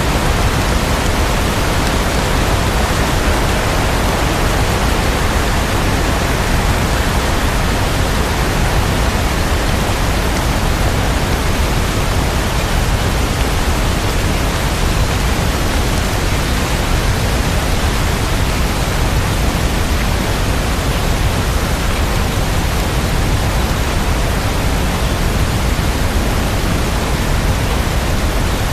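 Steady, dense rain: an even hiss without separate drops, thunder or music standing out.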